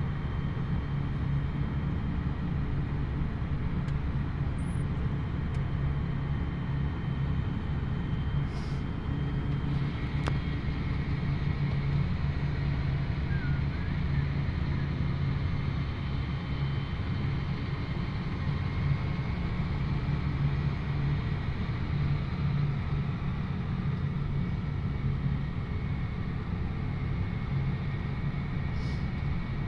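John Deere 8400R tractor's six-cylinder diesel engine running at a steady speed, a constant low drone with no change in pitch, and a few faint ticks.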